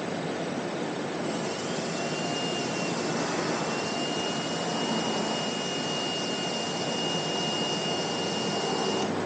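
A small motor running steadily with a high whine over a rushing noise. The whine comes in about two seconds in and cuts off just before the end.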